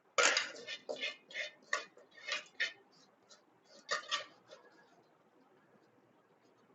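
Metal spoon clinking and scraping against a cooking pot in a quick run of strokes for about four seconds, then stopping; typical of stirring rice into a pot of boiling stock.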